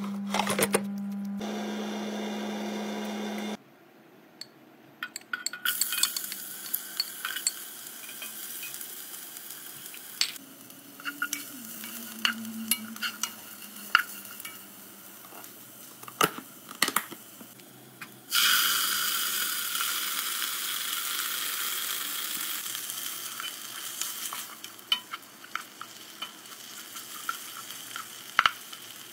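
Sliced shallots and garlic frying in oil in a non-stick saucepan, stirred with a spatula that clicks and scrapes against the pan. About 18 seconds in, a sudden loud sizzle as ground red chili paste goes into the hot oil, slowly fading. It opens with a steady hum that stops after about three and a half seconds.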